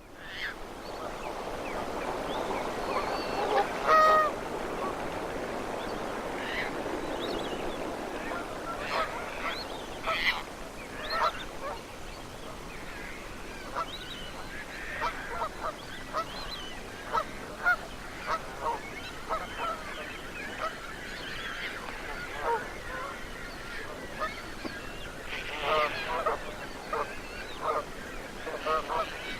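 A flock of geese honking, many short calls overlapping, with one loud honk about four seconds in. A steady rushing noise sits under the calls for the first several seconds.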